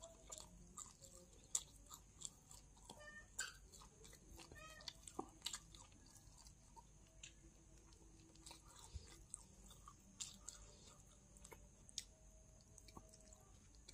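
A person chewing and biting food close to the microphone: quiet, irregular small wet clicks and crunches of eating.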